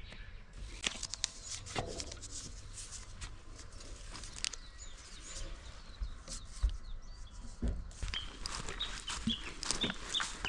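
Scattered light clicks and knocks, then from about eight seconds in a bird calling with short repeated chirps, a few a second.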